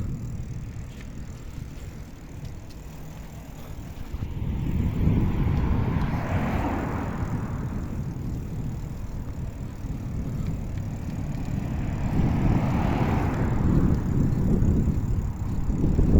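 Wind buffeting the microphone of a moving bicycle, with two road vehicles passing: the first swells and fades about six seconds in, the second around thirteen seconds in.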